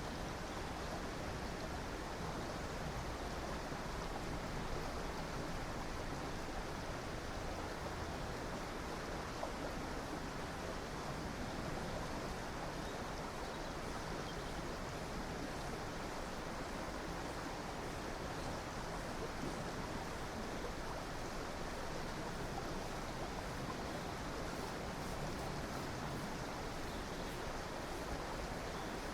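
River water flowing, a steady rushing that does not change.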